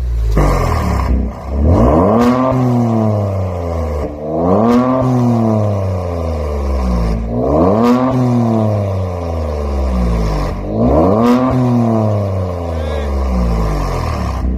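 Kia Stinger 3.3's twin-turbo V6 revved through a Maintec V4 aftermarket valved exhaust, four blips, each rising quickly in pitch and falling back slowly toward idle.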